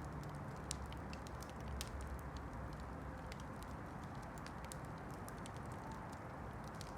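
Campfire crackling: irregular small sharp pops and snaps over a steady low hiss.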